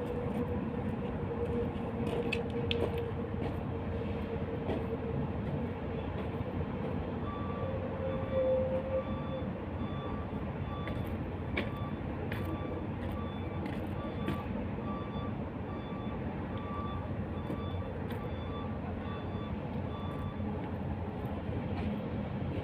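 Steady rumble of running machinery or vehicle noise, with faint short beeps repeating from about a third of the way in.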